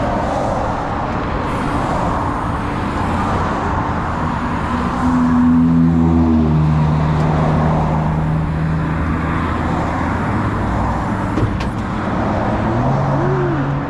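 Truck engine running while driving, over steady road noise; the engine note shifts in pitch about six seconds in and again near the end.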